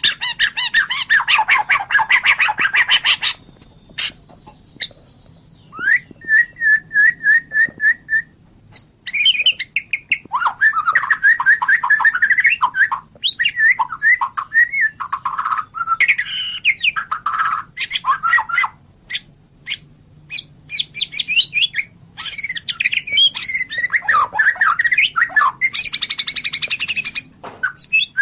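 White-rumped shama (murai batu) singing a long, varied song in phrases with short pauses. The song mixes fast harsh rattling trills, a run of clear repeated whistled notes about six seconds in, and rich warbling passages.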